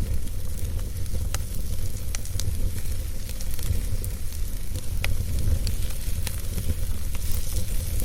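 Wood fire burning in a fireplace: a steady low rumble and hiss with scattered sharp crackles and pops, a clear one about five seconds in.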